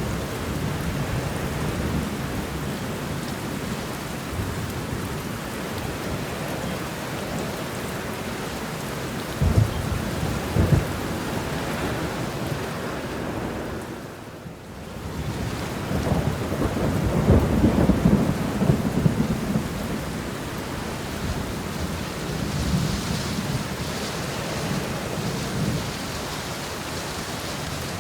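Steady rain shower with thunder: a couple of sharp low rumbles about ten seconds in, then a longer, louder roll of thunder past the middle. The sound dips briefly just before that roll.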